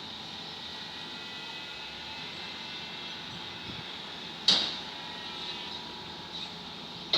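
Excavator being unloaded from a low-bed trailer: steady machine noise, with one loud sharp bang about four and a half seconds in that rings out briefly, and a smaller bang at the end.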